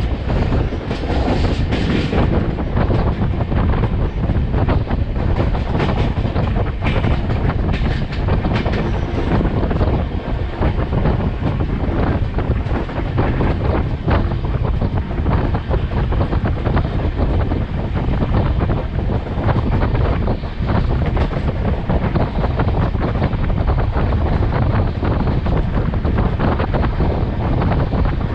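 Running noise of a moving passenger train heard from on board: steady wheel-and-rail rumble with an irregular light clatter, and wind buffeting the microphone.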